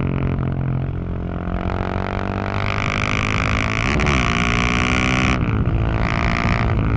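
Husqvarna 701 supermoto's single-cylinder engine and exhaust under throttle. The engine note climbs steadily, is cut off sharply about two-thirds in, picks up briefly and is cut again near the end, as the throttle is opened and closed through the bends.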